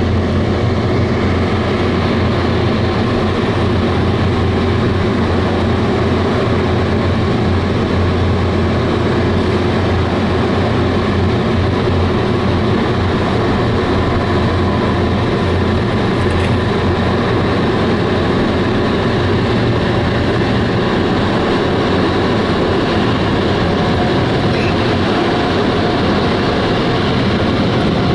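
Ryko SoftGloss XS automatic car wash machinery running: a loud, steady rushing noise over a constant low hum.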